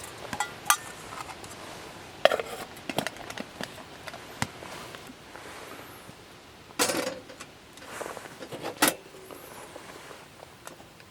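Metal cookware and utensils clinking and knocking in several separate sharp strikes, with a busier cluster about seven seconds in.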